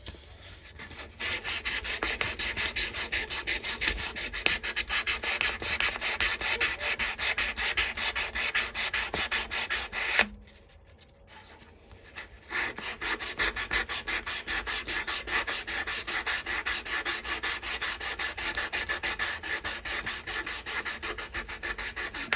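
A knife blade being hand-sanded with 400-grit sandpaper in quick, even back-and-forth strokes. The strokes stop for about two seconds near the middle, then start again.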